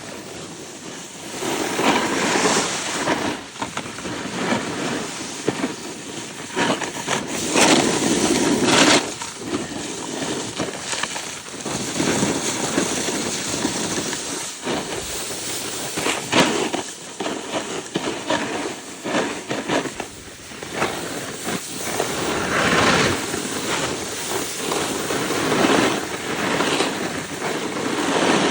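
Snowboard sliding and carving on snow: a scraping hiss that swells and eases through several turns.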